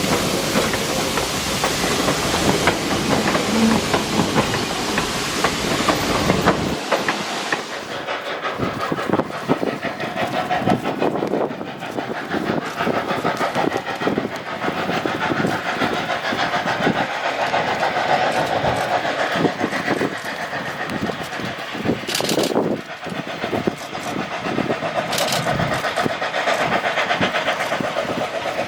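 Arcade & Attica 2-8-0 Consolidation steam locomotive #18 and its train running by: a loud hiss of steam for about the first seven seconds that cuts off suddenly, then the wheels clicking irregularly over the rail joints.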